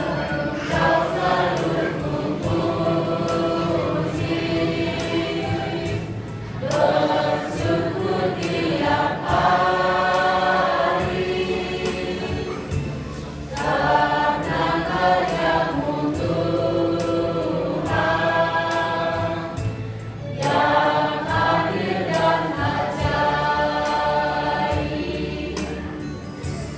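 Elderly church choir singing a Christian hymn in several-part harmony, in long held phrases of about seven seconds each, with a short breath between phrases.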